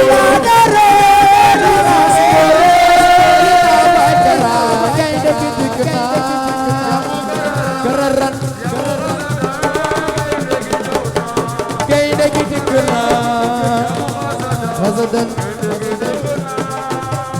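Senegalese assiko band music: a sung melody over hand drums and rattling percussion, a little softer after the first four seconds.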